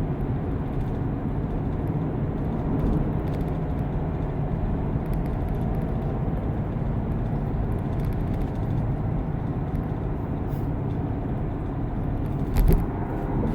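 Steady running noise of a C7 Corvette on the move, a low, even engine and road drone. A single short thump sounds near the end.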